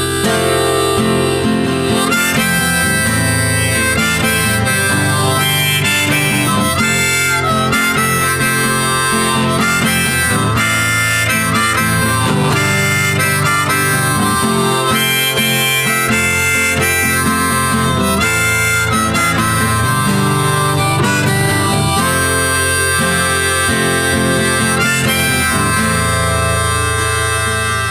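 Background music: an instrumental passage of an English pop song, played between its sung lines.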